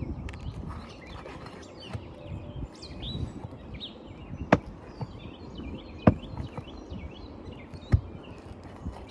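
Three sharp knocks, about a second and a half to two seconds apart, from hand roofing tools working a wind-damaged three-tab shingle and its nails loose. Birds chirp throughout.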